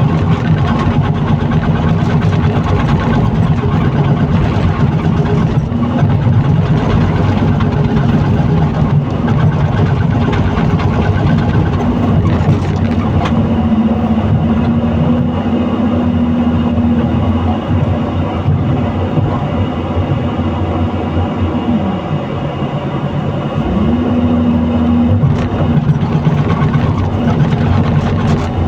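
Excavator engine running steadily under working load. One tone in the engine note dips away for about two seconds about three-quarters of the way through, then comes back, with a few scattered knocks.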